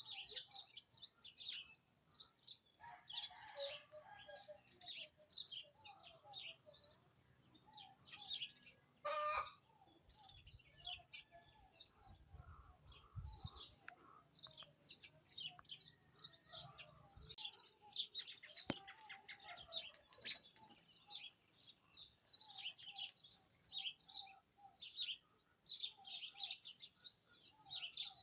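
Several small birds chirping and calling in short, quick notes, with some lower notes mixed in. A brief sharp sound about nine seconds in is the loudest moment.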